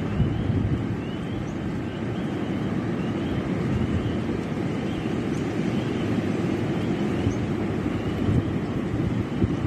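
Strong wind gusting and buffeting the microphone with a steady low rumble.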